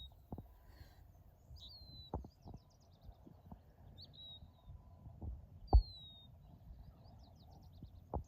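Birds chirping: short high chirps that slide downward every couple of seconds, and two quick trills, over faint steady background noise. A few dull knocks come through, the loudest a single thump nearly six seconds in.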